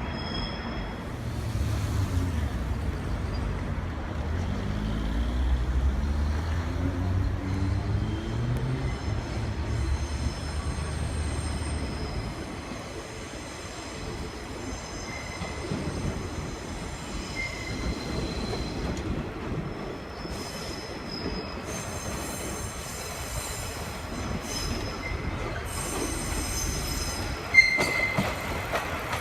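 The diesel engine of the Kazekko trolley train, a converted KiHa 48 railcar, works hard as it pulls away. For the first dozen seconds its rumble rises in pitch, then it eases off. High wheel squeal comes and goes over the station trackwork.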